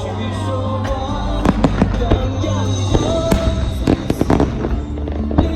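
Fireworks display: a rapid series of aerial shell bangs and crackling, with music playing underneath.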